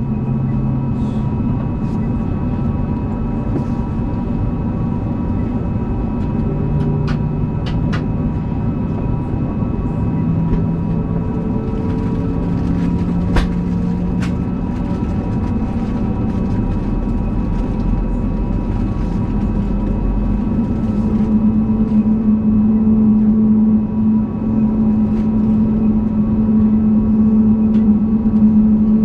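Cabin noise inside an Airbus A320neo on the ground with its Pratt & Whitney geared turbofan engines at low power: a steady hum and rumble, with a few light clicks about a third and halfway through.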